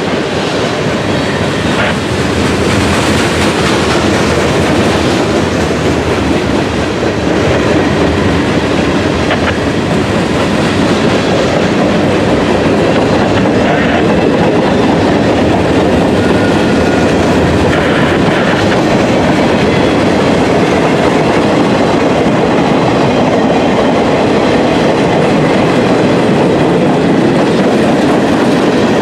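A freight train's cars rolling past at close range: a steady, loud rumble and clatter of steel wheels on the rails.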